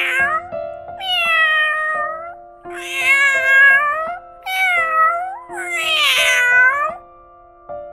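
Domestic cat meowing: five drawn-out meows, one after another, each sliding down in pitch, over soft background music.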